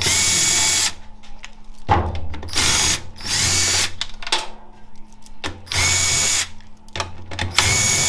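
Handheld power tool with a socket spinning out the transmission oil pan bolts of a 4L65E automatic transmission, in about five short whirring bursts with clinks and clicks between them.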